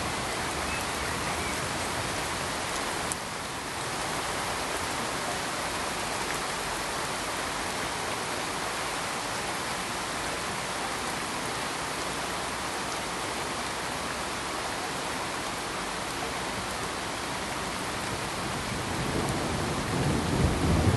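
Steady, dense hiss of heavy rain, with a low rumble of thunder building near the end.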